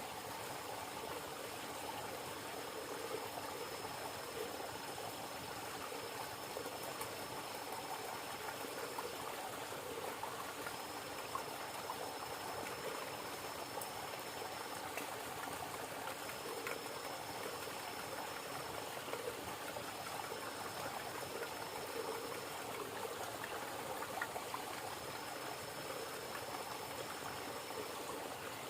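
River water running steadily, a constant rushing flow. A thin high steady tone comes and goes over it in stretches of several seconds.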